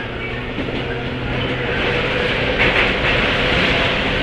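Running noise heard aboard a JR West 103-series motor car with MT55 traction motors: steady wheel-on-rail rumble and hiss. A faint motor hum fades about a second and a half in, and the running noise grows louder toward the end.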